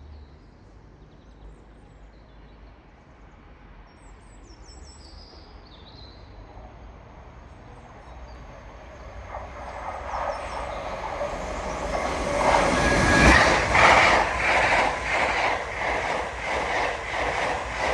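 An LNER Class 801 Azuma electric train approaches and passes, growing from faint to loud from about halfway in and peaking a few seconds later. It then runs on as a rhythmic clatter of wheels over the rail joints with a thin high whine. A few faint bird chirps sound in the quiet before it arrives.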